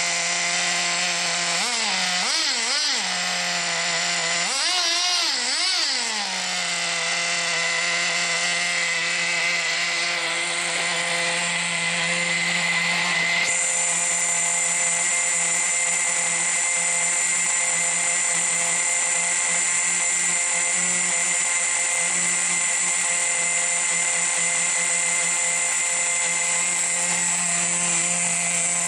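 Team Associated GT2 RC truck's nitro glow-fuel two-stroke engine running at a steady high idle, its revs blipped up and down with the throttle twice in the first six seconds.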